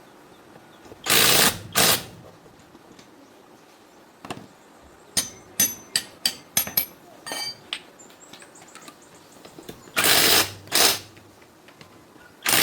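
A power tool run in short bursts, twice in a long-then-short pair, during tractor gearbox repair work. In between come sharp metallic clinks of metal parts and tools, some of them ringing.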